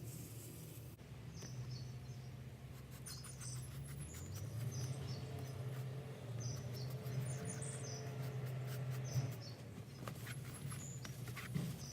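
Small birds chirping in many short, high calls, over a low steady hum and a few light clicks.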